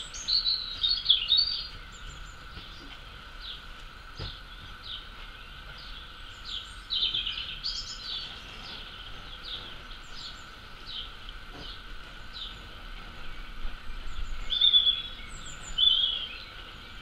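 Small birds chirping and singing in short repeated notes, in bursts near the start, about seven seconds in, and near the end, over steady background noise.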